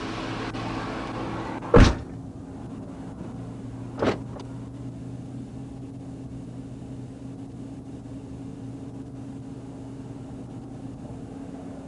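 Steady low hum heard inside a police vehicle. A loud thump comes about two seconds in, with the hiss dropping away right after it, as when the cabin is shut. A lighter knock follows about two seconds later.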